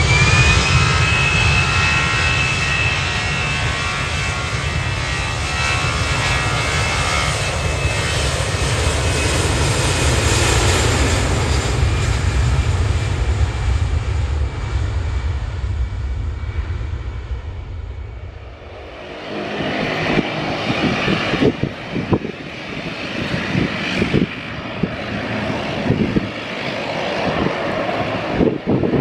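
Airplane engines running: a deep rumble with a high whine that rises in pitch at the start and then holds steady. About two-thirds of the way in the rumble drops away, and a gustier, rougher noise with irregular knocks takes over.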